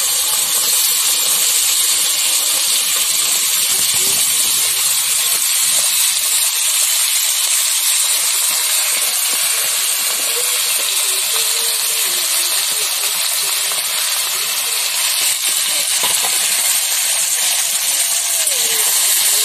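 Carrot, potato and green bean pieces frying in hot mustard oil in a wok: a steady, loud sizzle.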